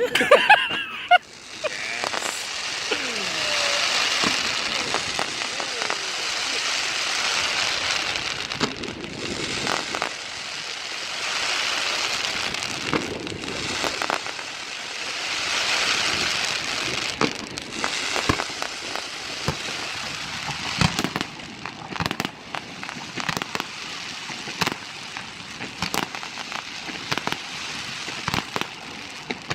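Aerial fireworks display: a continuous dense crackling that swells and fades in waves, punctuated by many sharp bangs of bursting shells, the crackle easing off in the last third.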